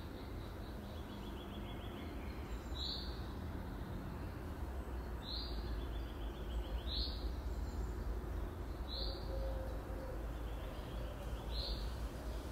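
A bird calling a short, high chirp five times, about every two seconds, some chirps followed by a faint trill, over a steady low outdoor rumble.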